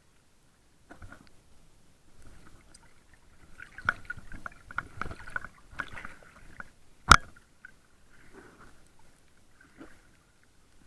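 Water moving around a camera in its waterproof housing: irregular sloshing and crackling that grows busier in the middle, with one sharp knock on the housing about seven seconds in.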